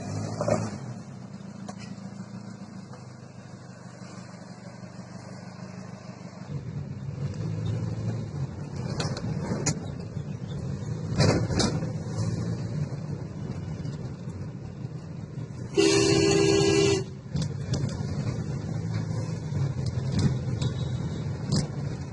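Toyota Corona sedan's engine running on the move, growing louder about a third of the way in. A vehicle horn sounds once for about a second near the end, the loudest sound, with a few short clicks scattered through.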